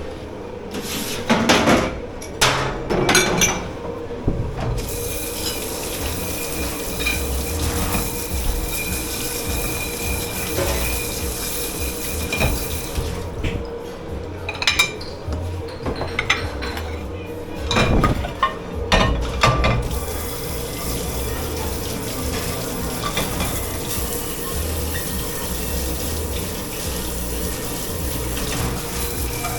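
Dishwashing at a commercial sink: water running from a tap, with two spells of dishes, pots and cutlery clattering, one near the start and one in the middle, over a steady kitchen hum.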